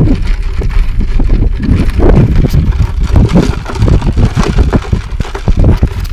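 Wind buffeting the microphone: a loud, gusty low rumble that surges unevenly.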